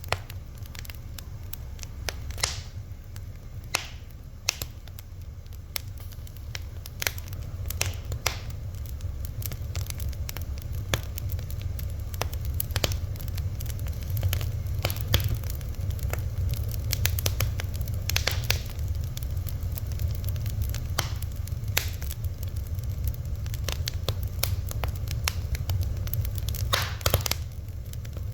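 Fire crackling, with irregular sharp pops and snaps, some louder than others, over a steady low rumble.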